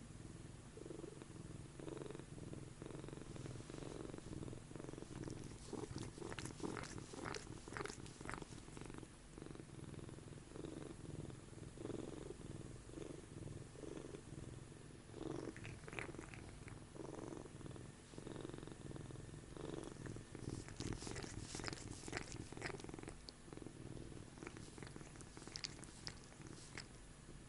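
Oriental cat purring loudly and steadily, the purr swelling and easing with each breath, with a few light clicks scattered through it.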